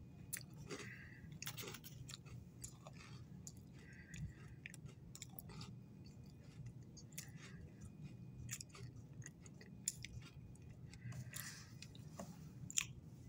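A person chewing a crunchy Oreo sandwich cookie with mouth closed: faint, irregular crunches and mouth sounds over a steady low hum.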